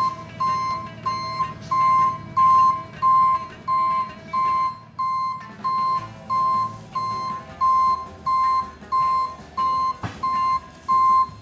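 Reversing alarm of a tow truck backing up, beeping steadily about three times every two seconds, with the truck's engine running underneath.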